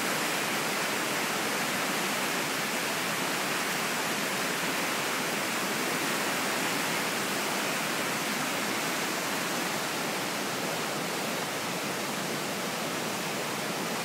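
Swift floodwater rushing past a bridge: a steady, even roar of fast-moving water.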